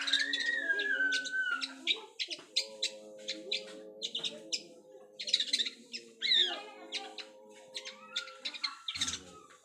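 Bird song of rapid, sharp chirps and short whistled calls that glide up and down, with steady low tones held underneath.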